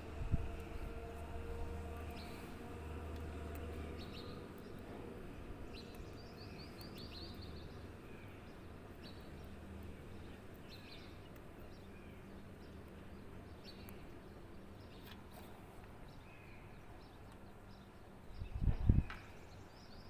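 Birds chirping in short, scattered calls over a steady low background hum, with a low thump near the end.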